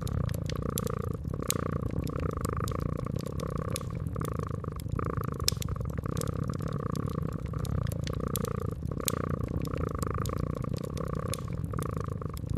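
A cat purring steadily, swelling and easing about once a second, over a wood fire's crackling: frequent sharp pops and snaps scattered throughout.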